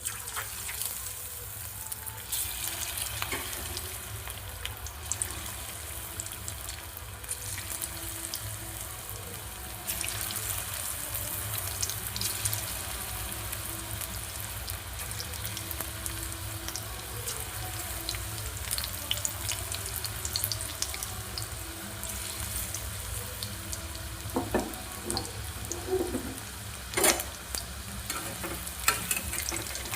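Cornflour-battered chicken pieces deep-frying in hot oil: a steady sizzle with fine crackling. A few sharp knocks come near the end.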